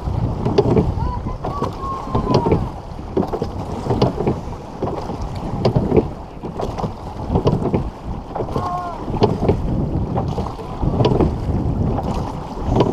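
Rowing shell under way at race pace: oars and oarlocks clicking and knocking in a repeating surge with each stroke, with occasional short squeaks, over wind rumbling on the microphone.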